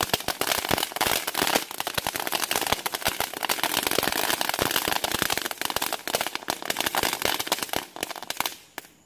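Consumer fireworks crackling: a dense, rapid run of small sharp pops that thins out and fades near the end.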